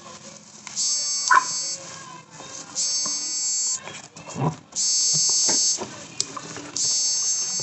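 A high, buzzing electronic tone sounding in bursts of about a second, repeating roughly every two seconds, with a low knock about halfway through.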